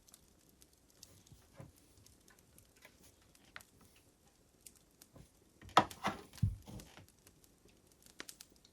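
Wood fire crackling: scattered faint pops, with a brief cluster of louder cracks about six seconds in.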